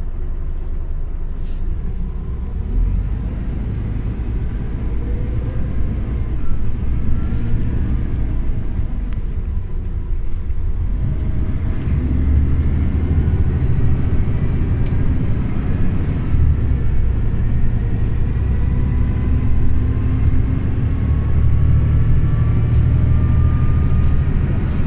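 Scania OmniLink CL94UB city bus heard on board: engine and drivetrain running under way, with faint whines that rise in pitch as it picks up speed, and a few short rattles. The low rumble gets louder about halfway through.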